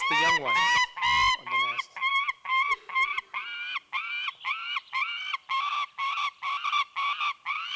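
Gyrfalcon nestlings begging for food at the nest: a rapid, regular series of harsh calls, each rising briefly then holding, about three a second, louder and more crowded in the first second or so.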